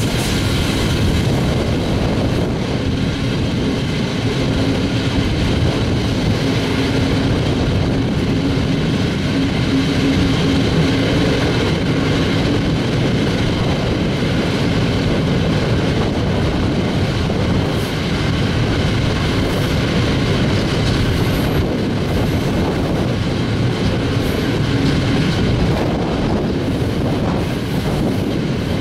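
Passenger train in motion, heard from a coach window: a steady run of wheel and rail noise. A faint steady hum sits under it from about two seconds in to about halfway through.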